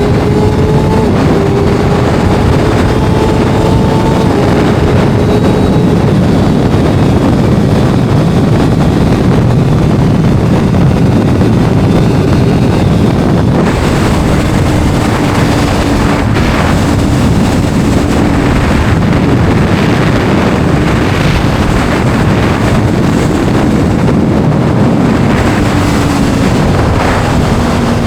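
Kawasaki inline-four sport motorcycle running on the road, its engine note climbing in the first few seconds and sitting lower, then falling, later on. Heavy wind buffeting on the microphone, stronger and gustier in the second half.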